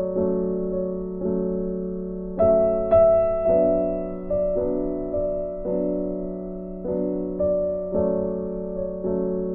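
Slow, gentle piano music: sustained chords struck about once a second, each left to ring and fade.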